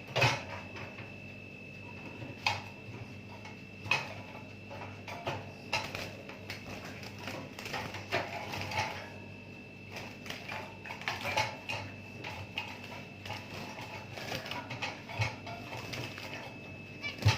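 Irregular clicks, taps and rattles of zebra finches being caught by hand in a cage, the birds quick and fluttering, with a faint steady high tone underneath.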